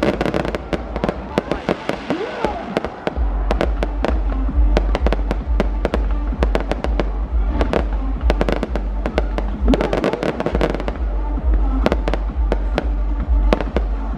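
Fireworks display: a dense run of rapid bangs and crackles, over a deep rumble that grows heavy about three seconds in. A few gliding whistles are heard near the start and again about ten seconds in.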